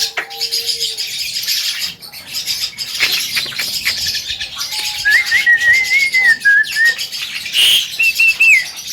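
Javan myna calling: a busy run of rapid chirps and clicks, with a wavering whistled phrase in the middle and a shorter, higher whistled phrase near the end.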